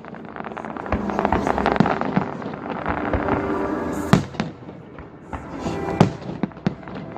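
Fireworks display going off: a run of sharp bangs and crackling pops, the loudest bangs about four and six seconds in, with music playing underneath.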